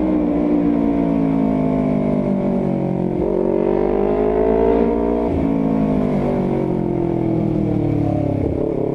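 Honda CBR250RR parallel-twin engine through an R9 GP series full-system aftermarket exhaust, ridden hard and very noisy. The revs break and change with gear shifts about three and five seconds in, then fall steadily as the throttle eases off.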